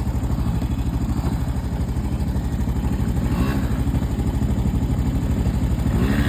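Small single-cylinder pit-bike-class engine running under throttle, a steady fast putter that grows gradually louder.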